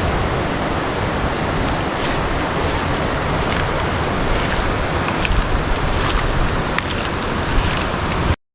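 Steady rushing of water, with a continuous high thin whine over it and a few faint ticks; it cuts off abruptly just before the end.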